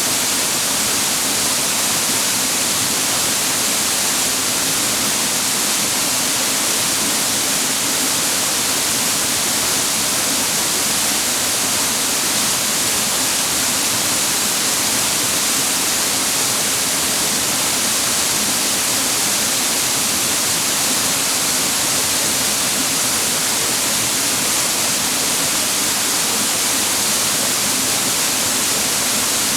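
Clear mountain water falling and rushing over rocks at a waterfall and its stream: a steady, unbroken hiss.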